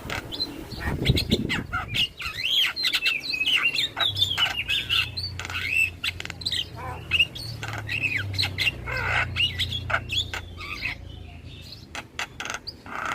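Javan myna (jalak kebo) singing a fast, varied chattering song of gliding whistles, squawks and sharp clicks.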